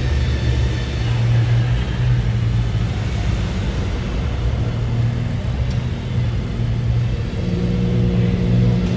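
A car engine running steadily with a low drone; a second, higher tone joins about seven and a half seconds in.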